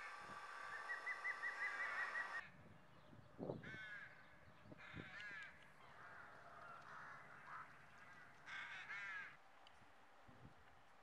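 Birds calling in trees: a quick twittering run in the first two seconds, then calls in short groups of a few notes, three or four times. A dull thump about three and a half seconds in.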